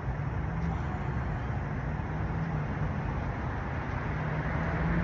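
Street traffic noise: a steady rush of road noise with a low engine hum running under it.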